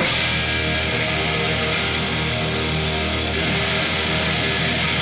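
Live rock band playing at full volume: heavily distorted electric guitars holding sustained chords over bass and drums, coming in at once after a drum fill.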